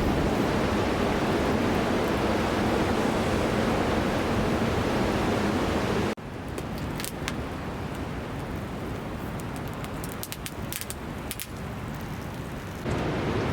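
Steady rushing of running water. About six seconds in it cuts to a quieter stretch with scattered sharp crackles of a wood campfire, then the rushing water returns near the end.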